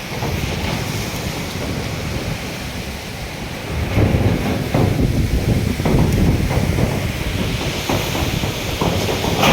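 Wind buffeting the microphone, a gusting low rush that grows louder about four seconds in.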